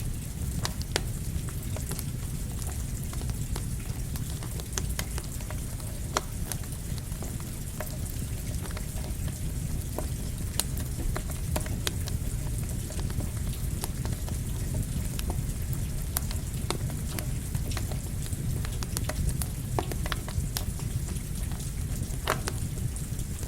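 Campfire crackling under falling rain: a steady low rush of rain and fire with irregular sharp pops and snaps from the burning wood.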